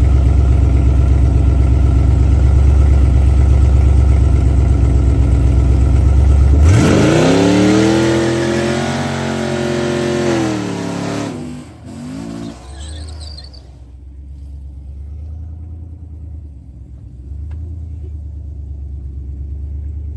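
Street-race cars sitting at the line with a loud, deep engine rumble. About six and a half seconds in they launch, and the engine note jumps and sweeps as they rev hard and accelerate away. A few seconds later the sound drops off to a quieter low rumble.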